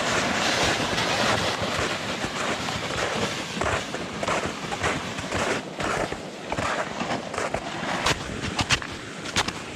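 Gear sleds being dragged and scraped over mud and slushy snow: a continuous rough scraping with irregular sharp clicks and snaps throughout.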